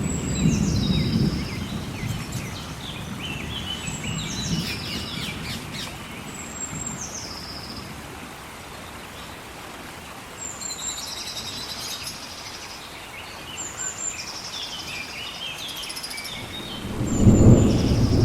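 A songbird singing short phrases over and over, each starting high and stepping down, over the steady hiss of rain. Low rumbles of thunder at the start and again near the end, the loudest moment.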